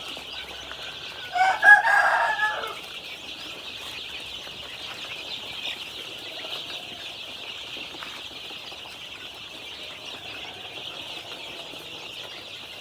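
A brood of young KKU1 chicks peeping steadily together, a constant high chorus. About a second and a half in, a louder, lower chicken call lasting about a second cuts in over the peeping.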